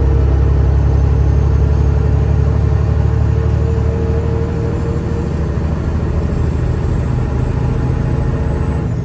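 Semi truck's diesel engine running steadily under way, a deep low rumble with a steady hum above it, easing off slightly in the second half.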